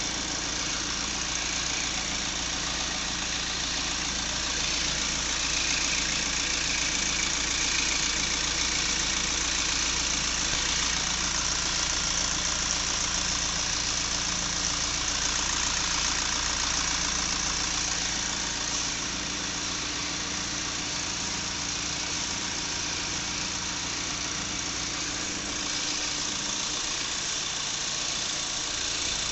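Common-rail (CRDI) diesel engine idling steadily, a little louder for a stretch in the middle.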